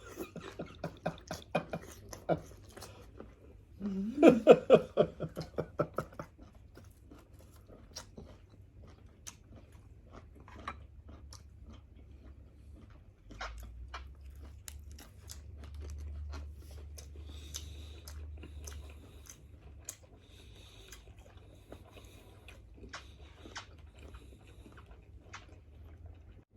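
Close-up eating sounds: chewing and biting grilled seafood, with scattered wet smacks and crunches. A louder rhythmic burst of pulsed sound comes about four seconds in.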